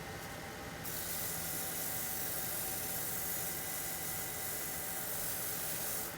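Steady hiss of a pressurized spray from a nozzle in the woodshop, starting about a second in and cutting off suddenly near the end.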